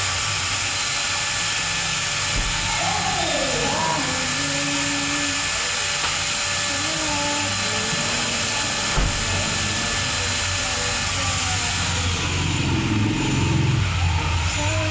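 Steady, loud hissing spray of a pressure washer working over a car's engine bay, even and unbroken with a slight swell near the end.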